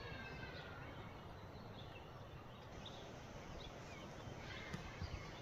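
Forest birds calling over a steady background hiss. A drawn-out descending call fades out about a second in, followed by scattered short, faint chirps.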